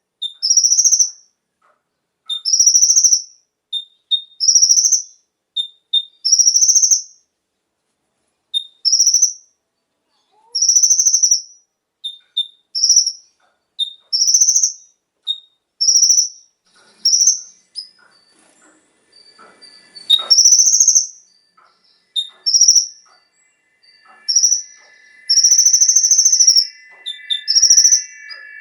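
Kolibri ninja sunbird singing: a high call of about half a second, repeated every one to two seconds, with short chirps in between. Faint steady tones come in about two-thirds of the way through, under the calls.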